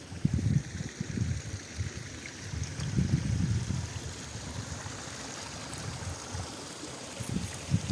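Flowing mountain water making a steady rushing hiss, with irregular gusts of wind buffeting the microphone in low rumbles.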